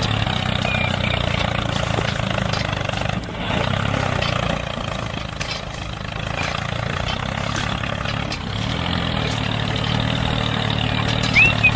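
Engine of a DIY mini tractor running steadily with an even low hum.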